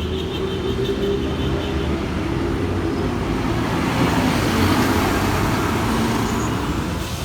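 City road traffic with engines running low, as a vehicle passes close, loudest about four to five seconds in.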